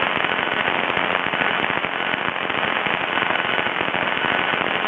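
Heavy crackling static on the aircraft's radio audio feed: a dense, steady stream of crackles with no speech over it. This is the badly crackling radio.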